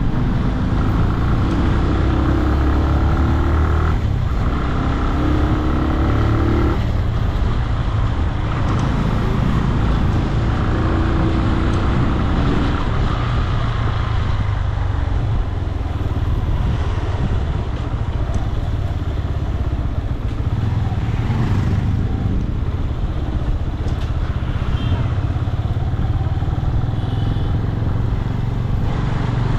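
Motorcycle engine running under way through city traffic, with a steady low rumble. A higher engine note holds for the first several seconds, then fades, and briefly returns about twelve seconds in.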